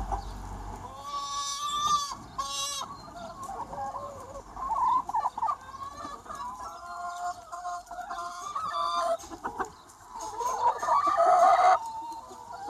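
A large free-range chicken flock clucking and calling, many hens overlapping. About ten seconds in, one louder drawn-out call rises above the rest and cuts off sharply.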